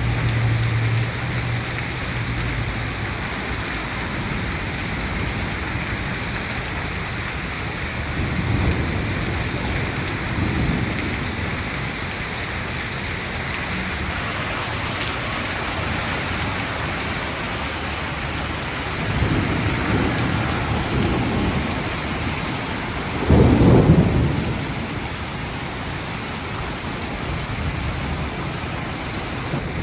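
Heavy rain falling steadily, with low rumbles of thunder several times and a louder, shorter clap about two-thirds of the way through.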